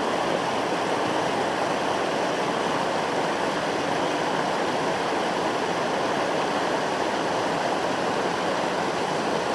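Mountain creek water rushing, a steady even rush with no breaks.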